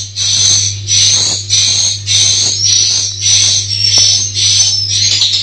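Swiftlet calls: high chirping twitters with short rising glides, repeating about twice a second, over a steady low hum.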